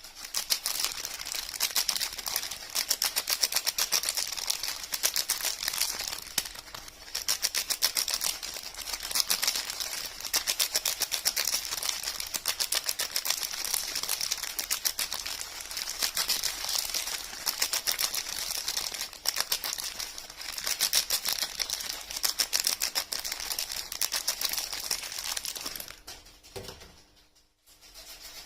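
Soap and its packaging handled close to the microphone: a dense run of rapid, crisp clicks and crackles in quick bursts, dying away near the end.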